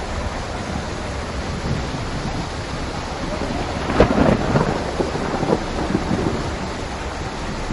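Steady rain falling in a thunderstorm, with a crack of thunder about four seconds in that crackles and rumbles for a couple of seconds before the rain carries on alone.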